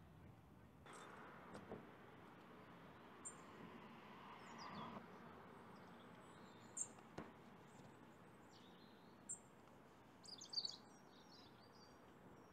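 Faint outdoor quiet with scattered short, high bird chirps, a small cluster of them near the end.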